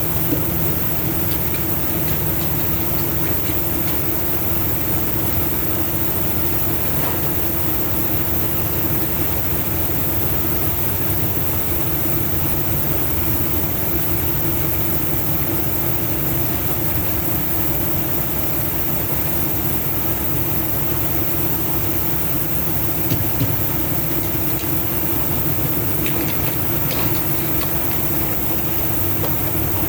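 Diesel semi-truck engine idling steadily, with a constant low hum and a few faint clicks.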